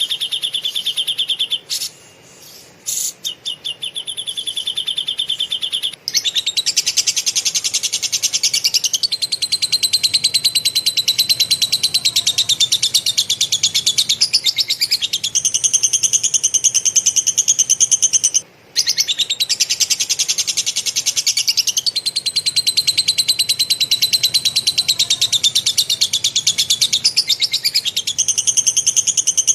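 Caged songbird singing long, fast trills of rapidly repeated sharp, high notes, each run holding one pitch for a few seconds before jumping to another. There is a short broken pause about two seconds in and a brief gap about two-thirds through.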